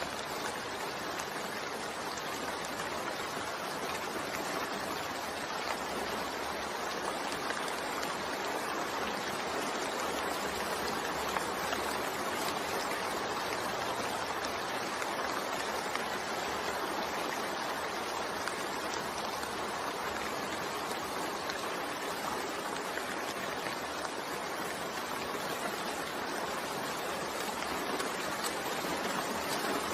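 Steady rainfall: an even, continuous hiss of falling rain.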